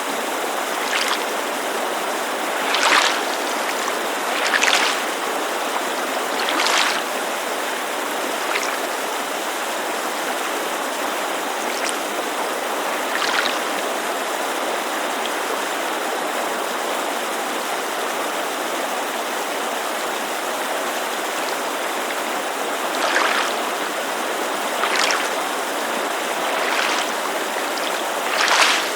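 Steady rushing white noise of a mountain creek, with gentle lake water lapping against the shore in soft, brief splashes at irregular intervals, most of them in the first seven seconds and the last six.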